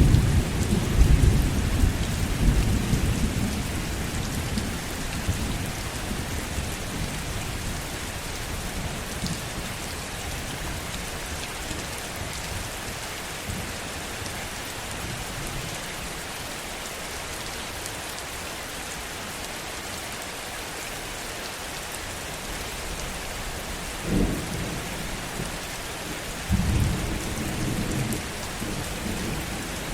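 Steady heavy rain with rolling thunder: a rumble fading over the first few seconds, a short low rumble about 24 seconds in, and another starting about three seconds later that runs on to the end.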